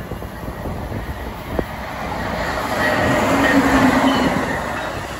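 Amtrak Siemens ACS-64 electric locomotive passing close at speed, its wheels rumbling on the rails. The noise builds to its loudest about three to four seconds in, with steady whining tones over it.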